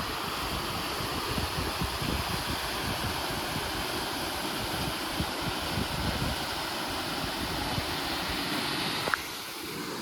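Steady rushing noise with wind buffeting the microphone in irregular low gusts. About nine seconds in there is a single click and the rushing drops abruptly.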